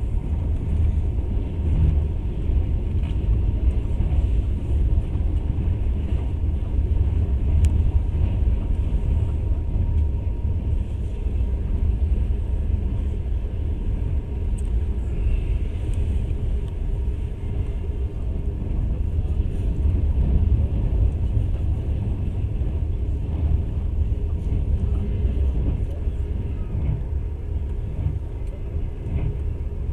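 Passenger train running along the track, heard from on board: a steady low rumble of wheels on rails.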